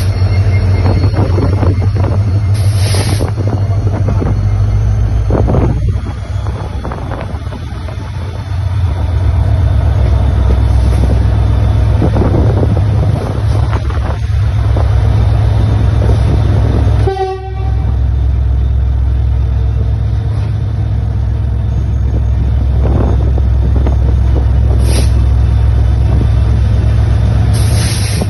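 Long passenger train passing close by, with a steady low locomotive engine rumble and the wheels clattering over the rail joints.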